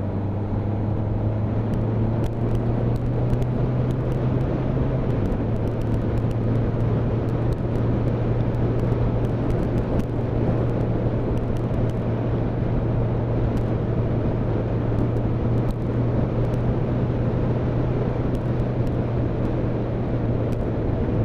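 Motorcycle engine running at a steady road speed, with wind rush and road noise on the rider's microphone. The engine note holds steady and dips slightly about five seconds in.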